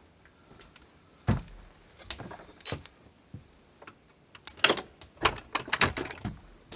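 Knocks and clatter of hard objects being handled: one heavy thump about a second in, a few knocks, then a quick run of sharp clicks and knocks near the end.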